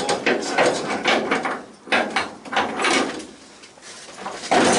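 Irregular metallic clunks and scraping as a classic Mini's front subframe is wrestled loose by hand and manoeuvred out from under the car.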